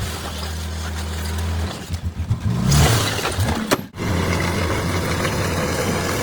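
Bulldozer's diesel engine running with a steady drone, which turns uneven and pulsing for about two seconds in the middle before settling back to steady.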